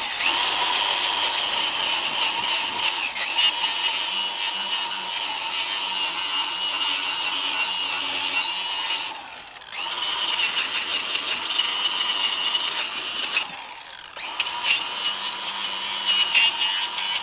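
A handheld power tool running against the rust-rotted steel of an ATV muffler, a steady whine over a harsh scraping noise. It runs in three long passes, stopping briefly about nine seconds in and again about thirteen and a half seconds in.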